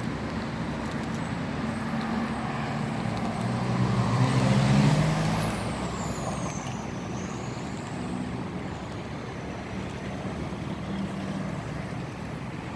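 Motor vehicle engine running and passing close by, loudest about five seconds in, over steady traffic noise, with a high squeal sliding down in pitch just after the peak.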